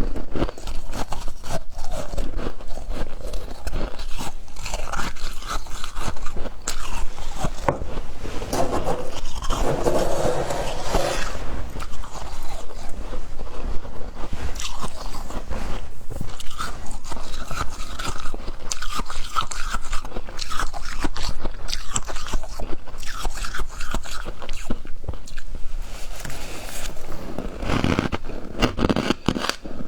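Humidifier ice being bitten and chewed in big bites close to the microphone: continuous crunching and crackling with squeaks from the ice.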